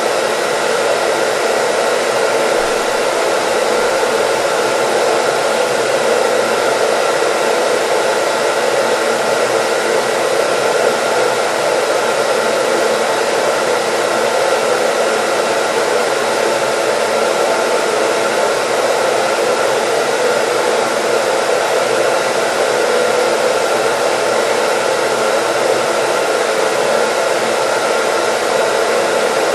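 Hair dryer running steadily, an even rushing air noise with a faint motor whine, unchanging throughout.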